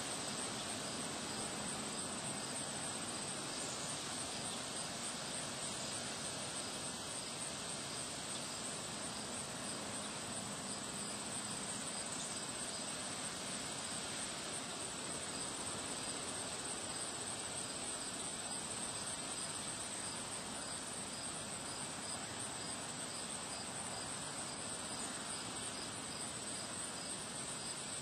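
Crickets chirping in a steady, continuous high-pitched trill, over a constant rush of wind noise.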